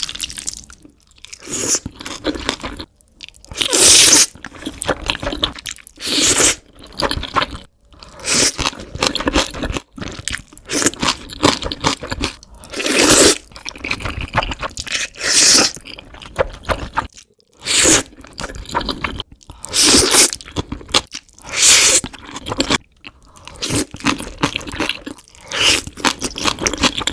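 Close-miked eating of black bean noodles: loud, wet slurps of noodles every couple of seconds, with chewing between them.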